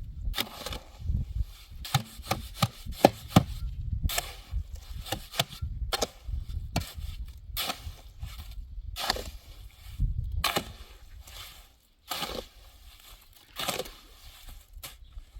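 Irregular knocks and short scraping strokes, several a second at first, over a low rumble; after about eleven seconds they thin out to a few quieter strokes.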